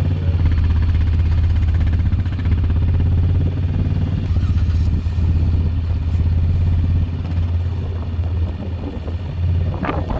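Four-wheeler (ATV) engine running steadily with a low drone, easing slightly in the later part. A rush of wind noise hits the microphone right at the end.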